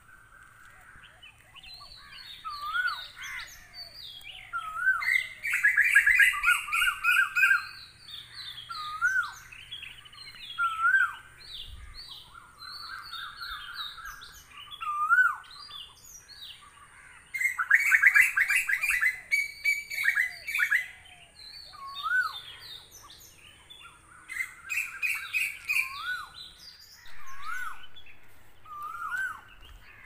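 Several birds singing and calling: one repeats a short, sharply rising-and-falling whistled note every second or two, while others break in with loud bursts of rapid chattering trills several times.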